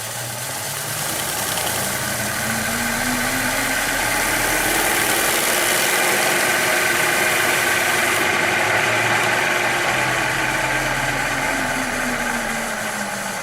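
A motor or engine running steadily, swelling in loudness and rising in pitch over several seconds, then dying away again with its pitch falling.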